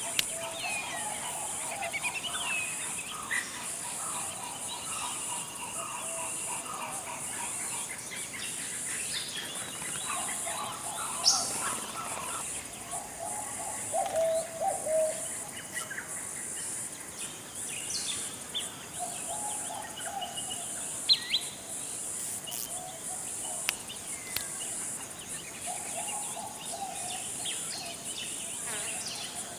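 Tropical forest ambience: a steady high-pitched insect drone with scattered bird calls throughout, some low warbling phrases and a few sharp high chirps.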